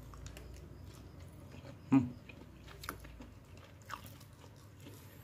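Close-up chewing of a mouthful of fried chicken and rice, with a few short sharp mouth clicks, the loudest about two seconds in.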